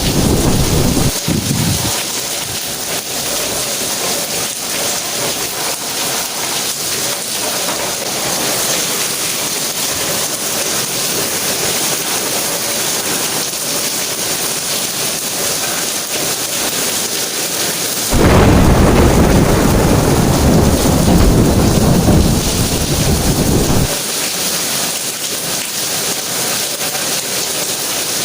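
Steady heavy rain hissing on the ground. Low thunder rumbles fade out in the first couple of seconds. A louder rolling rumble of thunder starts about eighteen seconds in, lasts some six seconds and cuts off abruptly.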